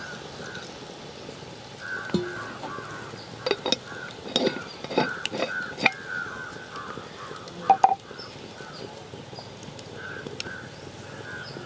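Birds calling over and over in short runs of notes at one pitch, with a handful of sharp clicks and knocks in the middle.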